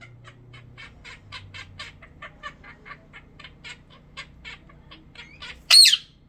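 Pet bird chirping in a quick run of short chirps, about four a second, then giving one loud squawk near the end.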